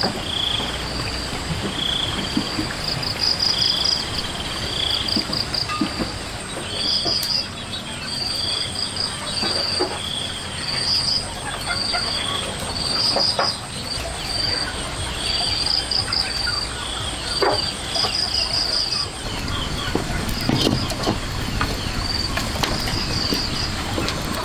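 Insects chirping outdoors: short pulsed chirps at two pitches, repeating about once or twice a second over a constant hiss. Faint scattered knocks and rustles come through now and then, mostly in the second half.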